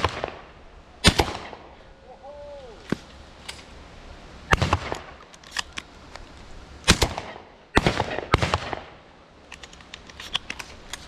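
Shotguns firing at flushing pigeons: five loud shots spread unevenly, the last three coming close together, with fainter shots from other guns in between.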